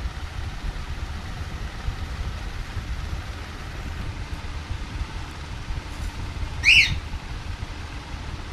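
A single short, shrill call from a young pet parrot, about three-quarters of the way through, over a steady low rumble.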